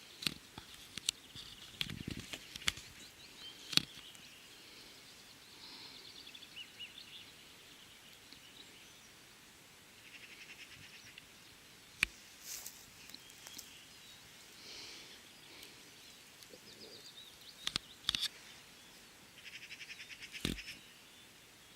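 Small birds singing rapid trills in woodland, with scattered sharp clicks and knocks, the loudest about 4, 12 and 18 seconds in.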